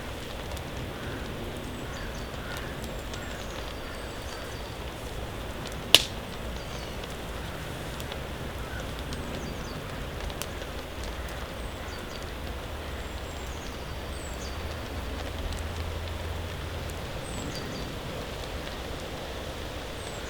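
Steady rain in a forest, with one sharp crack about six seconds in and a few fainter clicks. Faint short high chirps come and go.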